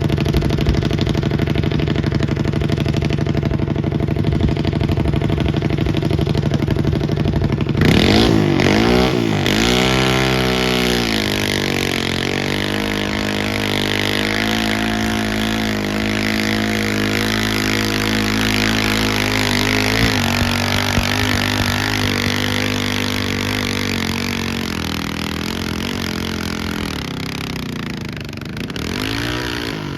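Garden pulling tractor's engine running loudly at a steady pitch. About eight seconds in it is revved up and down several times, then held at speed with its pitch wavering, and it revs once more near the end.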